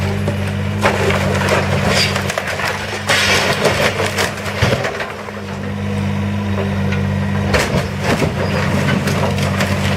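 Timber structure cracking, splintering and crushing as it is demolished, with the heaviest crashes about three seconds in and again around eight seconds. A machine's engine hums steadily underneath.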